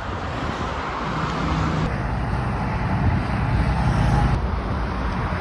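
Steady highway traffic: the tyre and engine noise of passing cars and trucks, swelling gently then easing slightly near the end.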